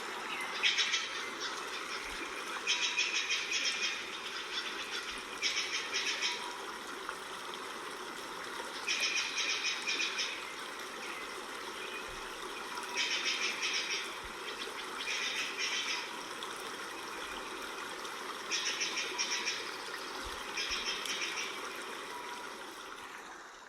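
Forest ambience with an animal's rapid, high-pitched trill repeated about eight times, each trill lasting about a second with a few seconds between, over a steady background hiss; it all fades out at the end.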